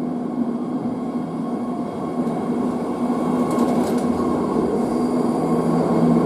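BART Fleet of the Future electric train rolling into the station and past alongside the platform: a steady rumble of wheels on rail with a held motor hum, growing louder as the cars go by.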